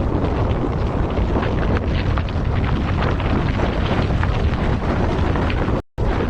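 Floodwater rushing in a loud, continuous rumble with crackling churn, cutting out for a split second near the end.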